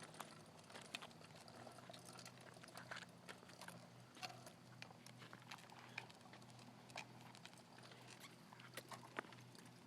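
Near silence: faint, irregular short clicks and ticks over a low steady hum.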